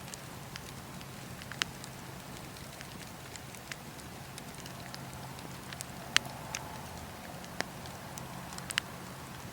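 Burning wood fire crackling, with sharp irregular pops over a steady low hiss. The fire sound cuts in suddenly at the start, and the loudest pop comes about six seconds in.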